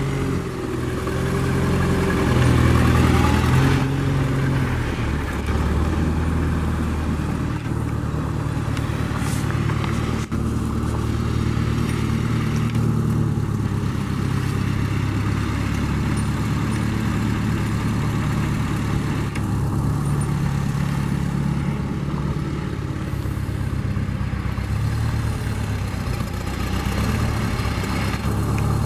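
1952 Massey-Harris 22 tractor's four-cylinder engine running as the tractor drives. It revs up and gets louder about two to four seconds in, then runs at a steady speed.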